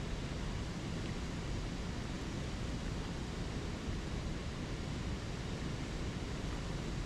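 Flowing spring creek water, a steady rush.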